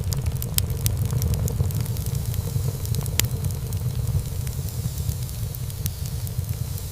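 Wood fire burning in a fireplace: many small, sharp crackles and pops over a steady low rumble of the flames, with one louder pop about three seconds in.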